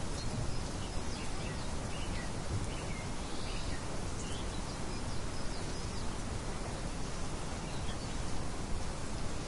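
Nature ambience of small birds chirping over a steady rustling hiss. The short chirps come mostly in the first few seconds, with a few more later.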